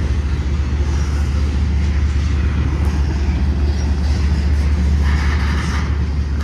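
Steady, loud low rumble of a running vehicle or engine, with a constant deep hum underneath.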